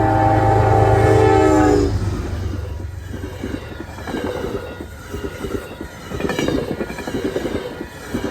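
Passing train: a multi-tone locomotive horn blast with heavy engine rumble that cuts off about two seconds in, followed by the rhythmic clickety-clack of the cars' wheels over the rail joints.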